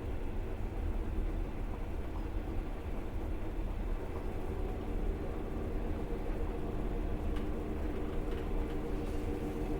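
Passenger train running, heard from inside the carriage: a steady low rumble of wheels on the track, with a humming tone that grows louder through the second half.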